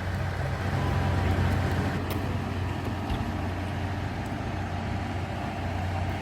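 KiHa 183 diesel railcar running steadily, a low engine drone over a continuous rumble with a few faint clicks.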